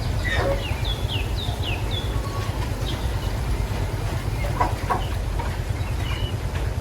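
A steady low rumble, with a bird giving a run of short falling chirps over it in the first two seconds and a few more chirps later.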